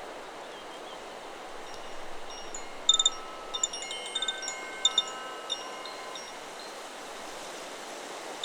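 Chakra Chimes 'Solar Plexus' wind chime stirred by the wind: a cluster of ringing strikes starts about three seconds in and dies away over a few seconds. Under it runs a steady rush of wind through the trees.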